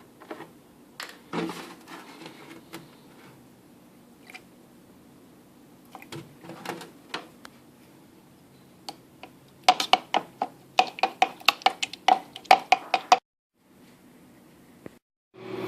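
A fork beating eggs in a bowl: a fast run of sharp clinks on the bowl with a ringing note, about five a second, for a few seconds. Before it come scattered knocks and clatter of bowl and utensils being handled.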